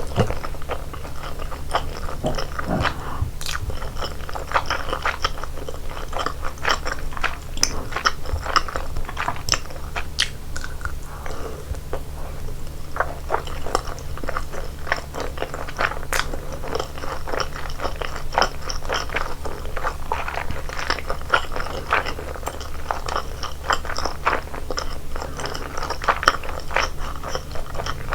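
A person chewing and biting food close to the microphone, with many small irregular crunches, over a steady low hum.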